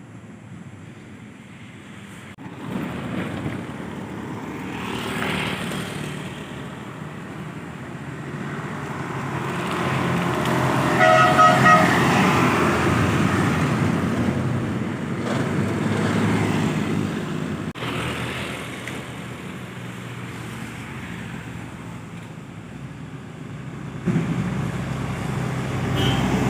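Road traffic, with vehicle engines growing louder and fading as they pass, and a vehicle horn sounding once for about a second near the middle.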